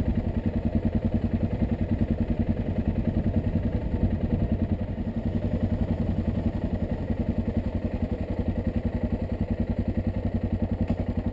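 Yamaha XT660Z Ténéré's single-cylinder four-stroke engine running steadily, with an even, rapid pulse.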